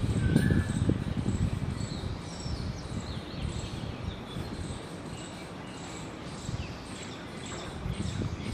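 Outdoor morning ambience: small birds chirping with short rising and falling calls, over a row of high, repeated insect-like ticks, with a low rumbling noise that is louder at the start and again near the end.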